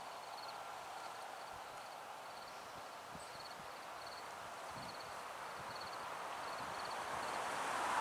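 An insect chirping in short high-pitched pulses, one about every three-quarters of a second, over a steady rushing noise that grows louder near the end.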